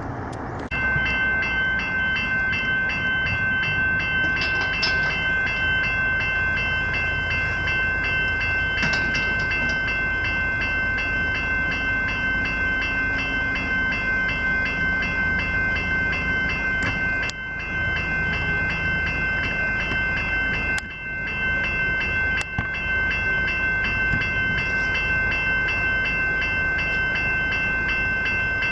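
Level crossing's electronic bells (General Signals e-bells) start suddenly about a second in and ring on with a fast, even, steady clanging as the crossing activates.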